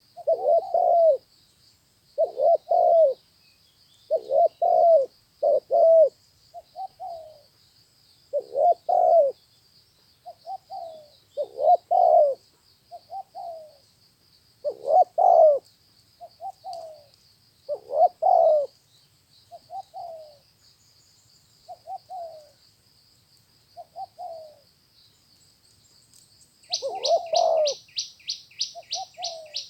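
Spotted dove cooing: short phrases of two or three low, mellow notes, repeated every couple of seconds, some louder and some softer. Behind it runs a faint steady high-pitched trill, and near the end a fast run of high chirps comes in.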